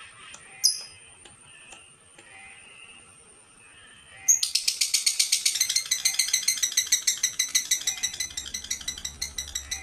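Old female dun fallow lovebird giving one sharp chirp, then from about four seconds in breaking into a long, loud, rapid chatter of harsh notes at about six a second.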